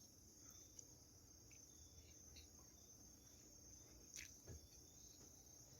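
Near silence with the faint, steady high trill of crickets in the background, and a couple of soft clicks about four seconds in.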